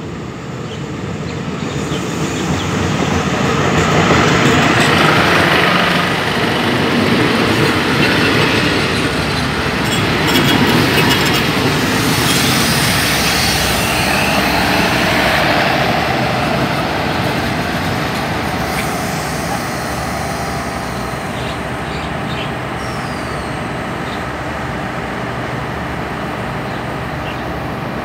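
SRT Daewoo diesel multiple unit arriving at a station. The sound of its diesel engines and wheels on the rails swells over the first few seconds as it approaches and runs close past. It then eases off and settles to a steady lower running sound as the train slows and stops at the platform.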